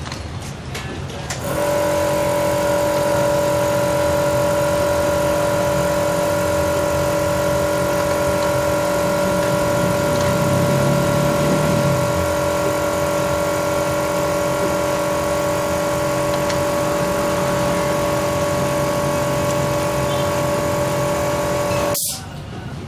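Datsun Go Plus's 1.2-litre three-cylinder engine running at a steady speed, its note holding one pitch throughout. It starts about a second and a half in, swells a little in the low rumble midway, and cuts off abruptly near the end.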